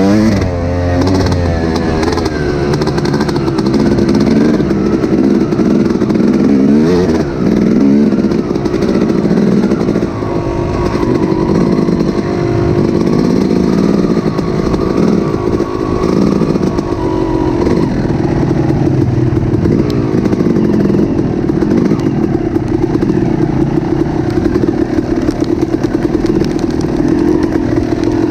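An engine running loudly, its pitch rising and falling with revving in the first seconds and again about seven seconds in, then holding steadier.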